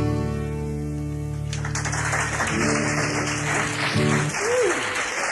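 Acoustic guitars' final chord ringing out at the end of a song. About a second and a half in, the audience breaks into applause, with a few guitar notes still sounding underneath.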